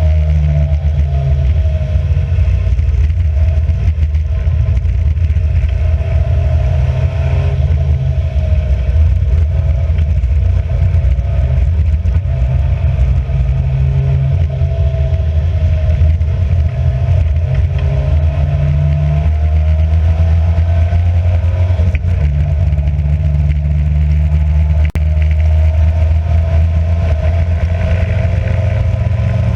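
Racing car's engine heard on board, running continuously under load with a deep steady rumble, its pitch rising and falling with throttle and gear changes.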